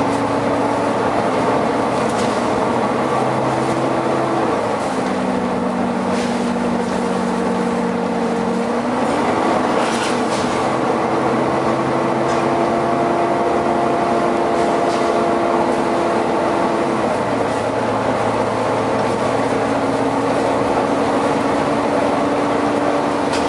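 Volvo B9TL double-decker bus running with a steady, loud mechanical drone from its engine and cooling fan. The drone's pitch steps down, then back up, then down again as the engine speed changes. Short hisses of air are heard several times.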